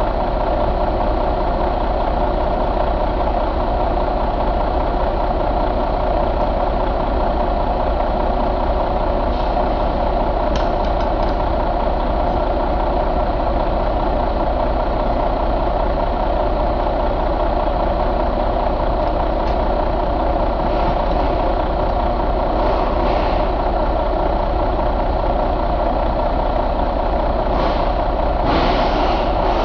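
Detroit DD13 inline-six diesel engine running steadily at idle.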